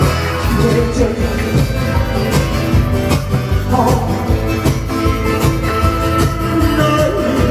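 Band music from a live song, with guitar to the fore.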